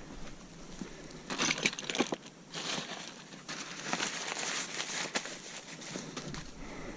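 Packaging being handled while unpacking sawmill parts: irregular crinkling and rustling with scattered light clicks and knocks.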